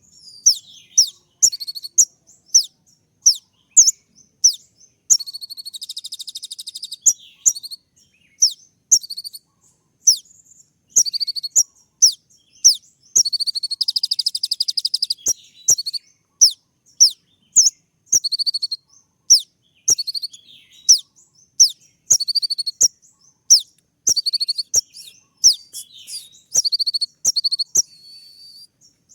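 Konin sunbird (kolibri ninja) singing a fast series of sharp, high, downward-sweeping whistled notes, one to two a second, broken twice by dense buzzy trills: the rapid 'tembak' notes that keepers use to provoke other konin to answer.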